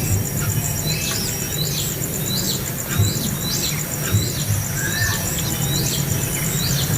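Small bird giving short, high chirps that fall in pitch, about two a second, over a steady, high, pulsing insect trill and a low background rumble.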